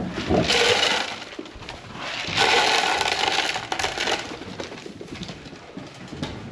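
Dry grain poured into goat feed pans in two pours, a short one and then a longer one of about two seconds, followed by quieter rattling.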